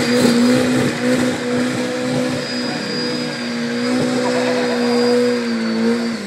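Car engine held at steady high revs during a burnout, with the spinning rear tyres squealing and hissing over it; the revs start to drop right at the end.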